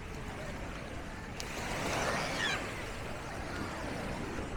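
Seaside ambience: a steady wash of surf with faint voices of people around. About a second and a half in, a click comes, then a brief louder swell with a short high-pitched call over it.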